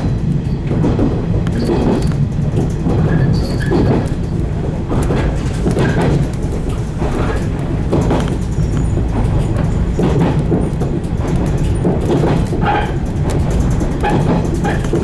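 115 series electric train running along the line: a steady rumble of wheels and running gear with frequent clicks and knocks from the track. Short high squeaks come and go, more of them near the end.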